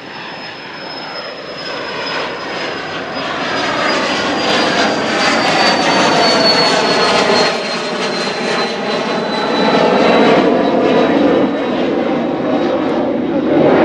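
Jet airliner's engines at takeoff power, a loud roar growing louder as it passes, with a thin high whine that slowly falls in pitch.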